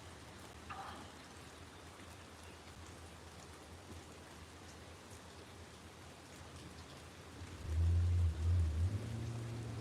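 Steady rain falling on surfaces around a porch. Near the end a loud low rumble comes in and carries on.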